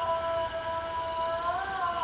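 Diesel locomotive horn sounding one long blast of several tones together, its pitch wavering slightly.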